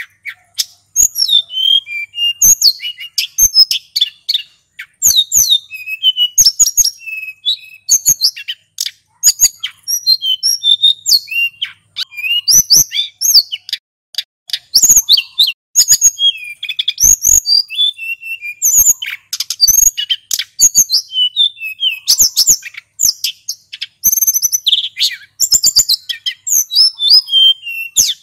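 Male sulingan gunung singing in long rolling phrases: rapid, high-pitched chirps, trills and short whistles packed closely together, with brief gaps between phrases.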